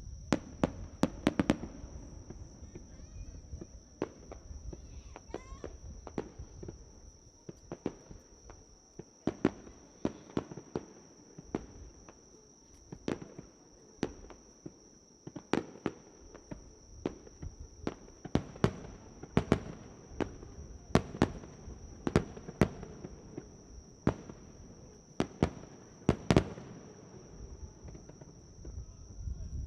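Aerial fireworks bursting in an irregular series of sharp bangs, some in quick clusters, the loudest coming in the second half. A steady high-pitched insect trill runs underneath.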